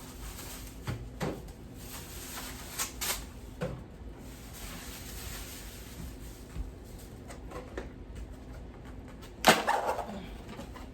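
Groceries being handled and set into a refrigerator: scattered light knocks and clicks of packages, shelves and drawers. The loudest is a sharp knock about nine and a half seconds in.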